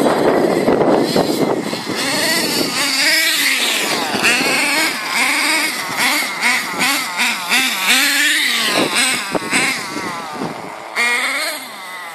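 HSP .18 big-block nitro engine of a 1/10 RC monster truck being driven hard, revving up and down over and over with the pitch rising and falling every second or so. A loud rushing noise fills the first couple of seconds, and the engine grows fainter near the end.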